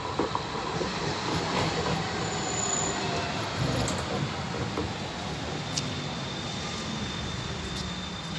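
London tram running along its rails, with a steady rumble of wheels and running gear. A thin, high wheel squeal joins about halfway through.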